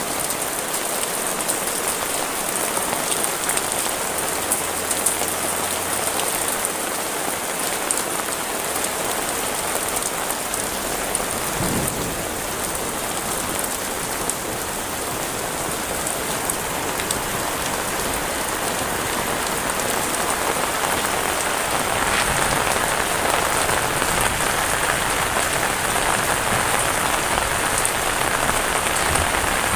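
Heavy rain pouring steadily, growing a little louder in the last several seconds.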